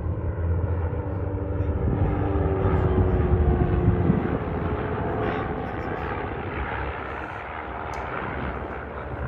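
Boat outboard motor running steadily, a low drone with a louder stretch a couple of seconds in.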